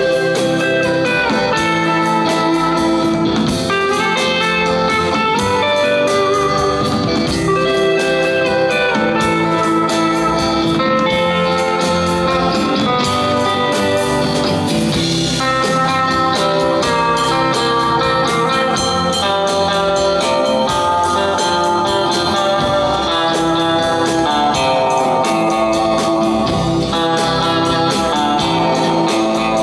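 Live rock and roll band playing an instrumental passage, electric guitar leading over a steady drum beat, with no singing.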